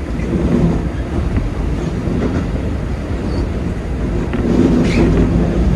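Keikyu 2100-series train running into a station, its wheels rumbling and clicking over the rails with a steady low hum beneath, heard from the driver's cab.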